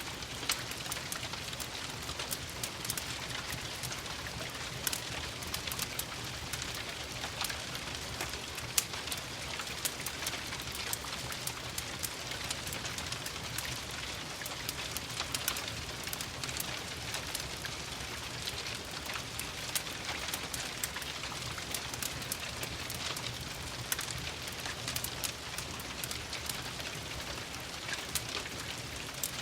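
Steady rain pattering, mixed with a wood fire crackling in irregular small pops and snaps.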